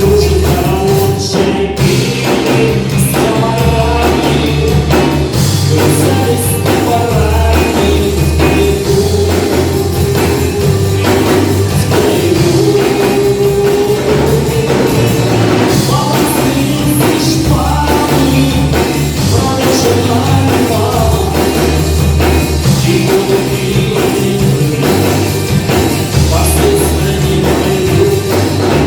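Live rock band playing with bass, drums and vocals.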